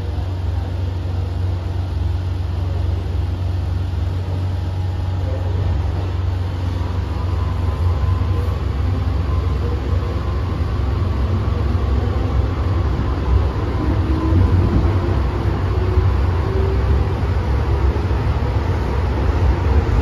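MTR M-train running, heard from inside the car: a steady low rumble of wheels and running gear, with a faint motor whine that shifts in pitch partway through.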